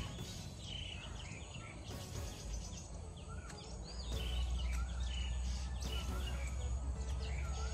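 Birds chirping and calling in short whistled notes over a steady low outdoor rumble, which grows louder about halfway through.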